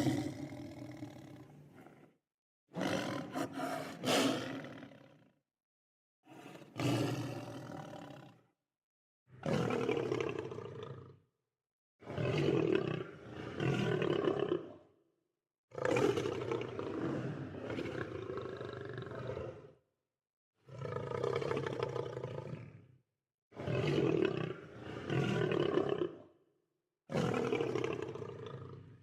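Lion roars, one after another, about nine in all, each lasting two to four seconds and separated by short gaps of dead silence.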